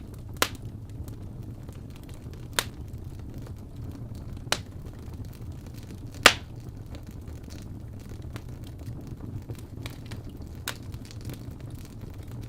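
Wood fire crackling in a fireplace: a steady low rumble of the flames with four sharp pops, the loudest a little past the middle, among fainter ticks.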